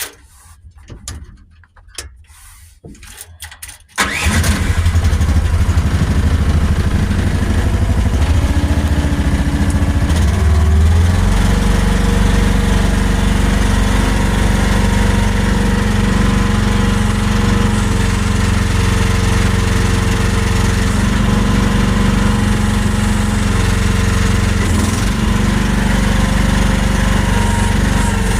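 Chinese mini excavator's engine starting about four seconds in and then running steadily, its pitch shifting and settling around eleven seconds in. The machine's hydraulic fluid has just been changed.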